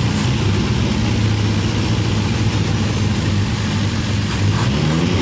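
Toyota K-series inline-four engine running steadily at idle on a freshly reinstalled distributor.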